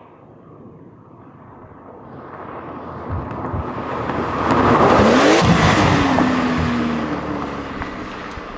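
Porsche 911 (992) twin-turbo flat-six with a titanium valved exhaust accelerating past. It grows louder with rising engine pitch to a peak about halfway through, then fades with the pitch dropping as it moves away.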